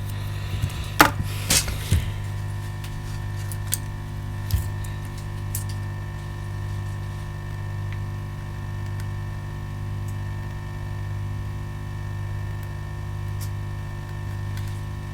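Steady electrical hum from workbench equipment, with a few sharp clicks and taps of small tools being handled at the bench, mostly in the first two seconds and once more a little later.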